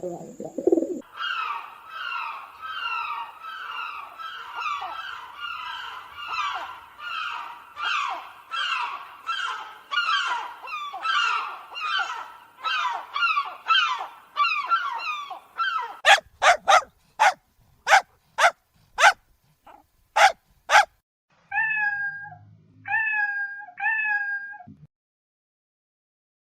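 A run of different animal calls in turn: short falling calls repeated about twice a second for some fifteen seconds, then a string of sharp clicks, then three drawn-out calls.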